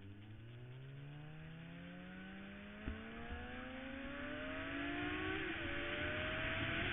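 Suzuki GSX-R sport bike's inline-four engine accelerating hard, its pitch climbing steadily, with a brief dip about five and a half seconds in before it climbs again. Rushing wind noise builds with speed, and there is a single short click about three seconds in.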